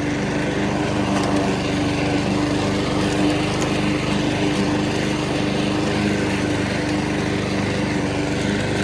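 Husqvarna HU800AWD push mower's Honda engine running steadily at constant speed.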